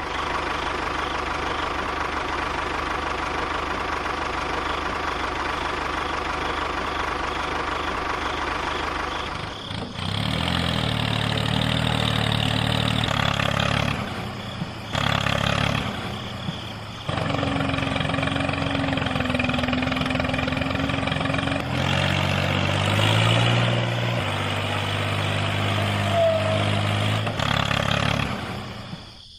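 A small motor running steadily, with a steady hum. From about ten seconds in, its pitch and loudness change abruptly several times.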